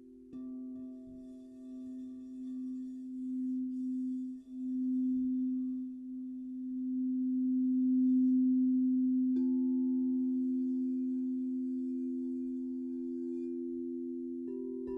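Crystal singing bowls ringing in long, overlapping steady tones that swell and ease in loudness. A new bowl tone comes in sharply just after the start, another about nine seconds in, and a third near the end.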